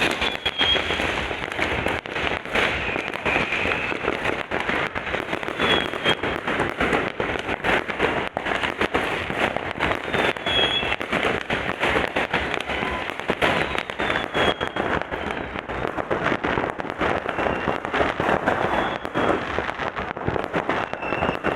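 Fireworks going off in a dense, unbroken run of rapid bangs and crackles.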